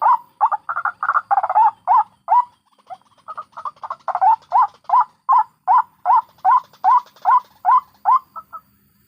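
White-breasted waterhen (ruak-ruak) calling: a long series of repeated call notes, each rising then falling in pitch, at about two and a half notes a second. There is a brief break about two and a half seconds in, and the series ends near the end with a few quick, weaker notes.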